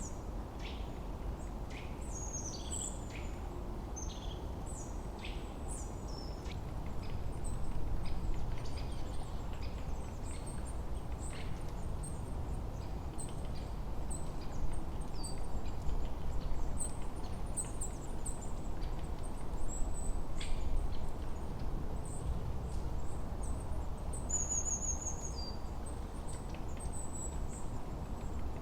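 Layered forest ambience: many small birds chirping and calling in short, scattered phrases over a steady low rushing of wind.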